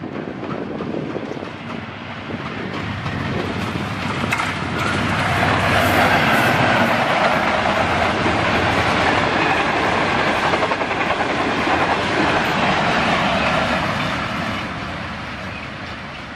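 Express passenger train passing at speed. The noise builds over the first five seconds, stays loud for about eight seconds, then fades as the train goes by.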